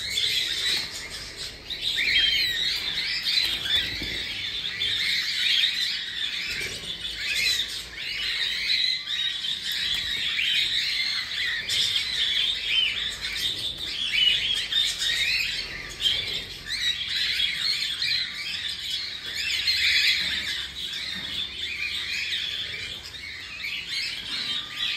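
Several cockatiels chirping and squawking, a dense run of short overlapping calls.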